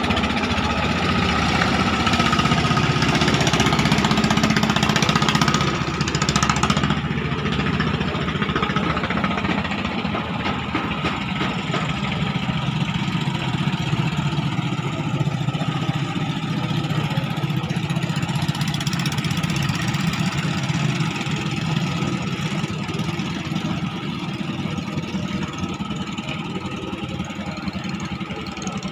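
Engine of a klotok, a small wooden river motorboat, running steadily at an even speed, easing off a little after about six seconds.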